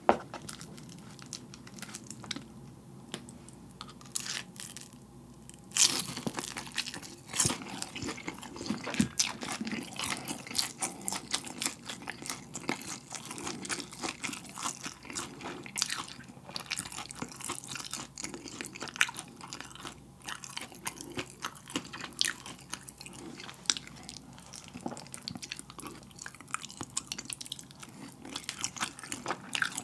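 Close-miked biting and chewing of a sauce-dipped fried gimmari (seaweed roll stuffed with glass noodles): a few scattered clicks at first, then from about six seconds in a dense, steady run of crunching and chewing.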